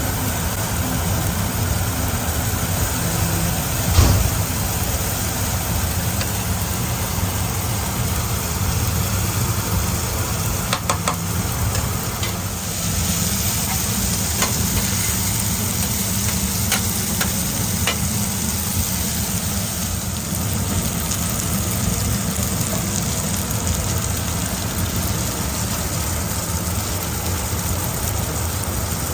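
Steady mechanical hum with a low drone and a sizzling hiss over it, like a food truck's kitchen in service. A single thump about four seconds in, and a few light clicks later on.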